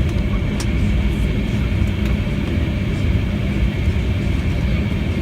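Embraer E190 airliner heard from inside the passenger cabin: a steady, loud low rumble of engine and airframe noise with a constant high jet-engine whine over it.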